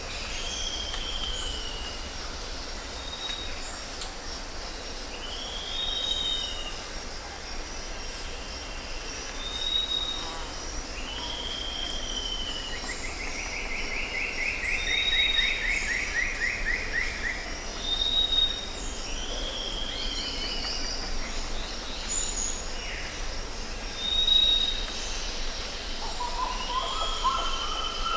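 Jungle ambience: several birds call over a steady, pulsing insect chorus. Short arched whistles repeat every few seconds, with a long rattling trill around the middle and a lower call near the end.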